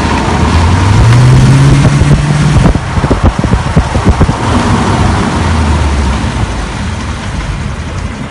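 A car driving: steady road and wind noise with the engine rising in pitch about a second in, dropping back after a couple of seconds, then pulling again more gently.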